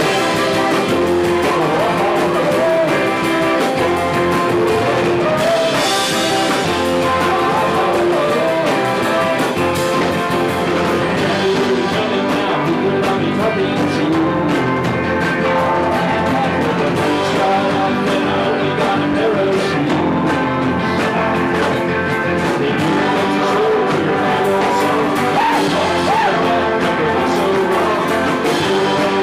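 A live band playing a fast song, with singing over the instruments.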